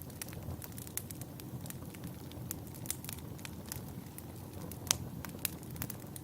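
Wood fire in a fireplace crackling: irregular sharp pops and snaps over the low steady rush of the flames, with one louder pop near the end.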